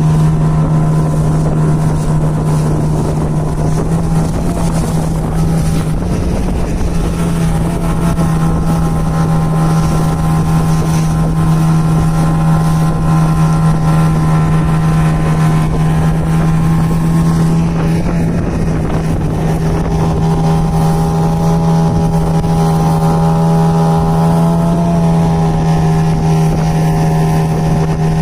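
A longboat's outboard motor running at a steady speed while cruising on the river, a constant drone whose pitch shifts slightly about twenty seconds in.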